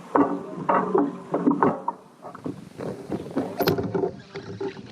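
Sea water splashing and slapping against a kayak hull in choppy water, in irregular short bursts.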